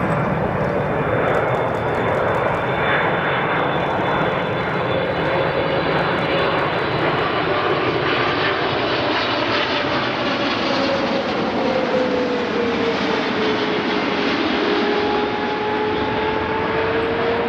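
Jet airliner's engines running loud as it passes low near the runway end, a steady roar with a whining tone that slowly drops and settles about two-thirds of the way through.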